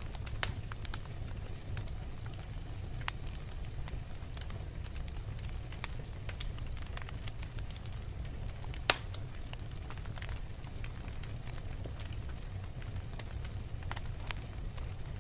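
Wood fire burning in a fireplace: a steady low rumble of flames with scattered crackles and snaps from the logs, one sharp, loud pop about nine seconds in.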